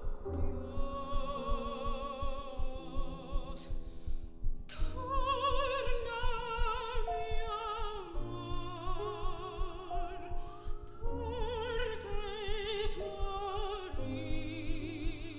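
A classical soprano singing with wide vibrato over piano accompaniment, with a short breath about four seconds in.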